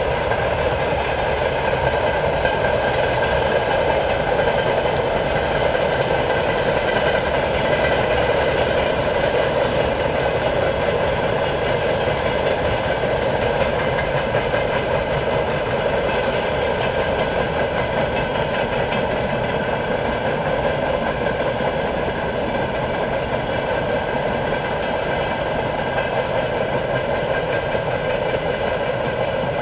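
A train running steadily, heard without sight of it: a continuous rumble with a set of steady humming tones, holding the same level throughout.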